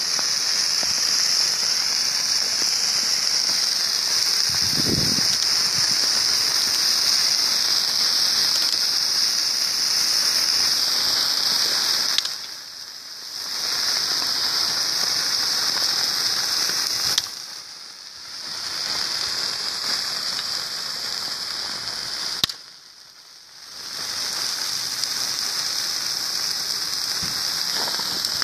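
Bonfire burning on ice: a steady hissing with crackle and patter, dropping away briefly three times.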